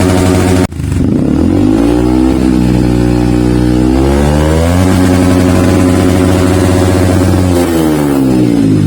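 Yamaha WR155's single-cylinder engine through a Triton CR-5 stainless full-system exhaust, being revved. The pitch climbs in two steps, holds high, then falls back near the end, with a brief cut in the sound about a second in.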